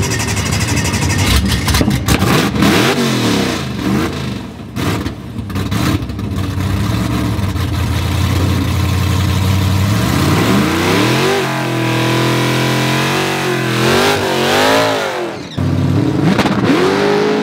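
A supercharged 412 cubic inch LS V8 in a drag car revs hard and holds high through a burnout. Its pitch then swings up and down in quick rev blips, cuts off briefly about fifteen seconds in, and rises again.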